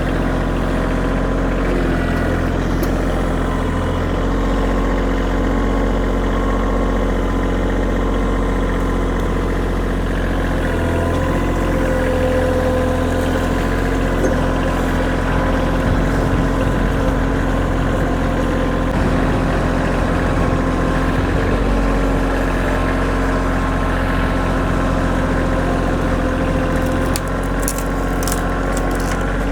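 Kioti compact tractor's diesel engine running steadily under throttle. A few short sharp clicks come near the end.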